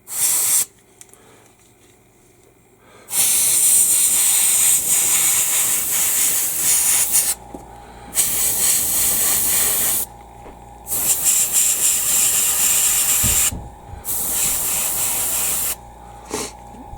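Airbrush hissing in repeated bursts of air, each a few seconds long with short pauses between, aimed at freshly glued photo-etched parts to check that they hold.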